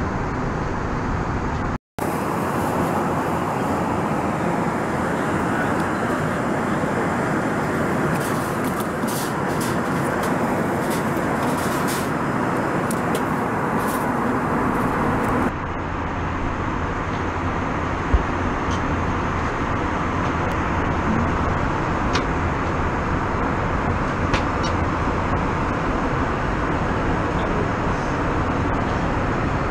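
Steady noise of an Airbus A321 heard from inside the passenger cabin: engine and airflow noise with a few faint rattles, broken by a brief dropout about two seconds in.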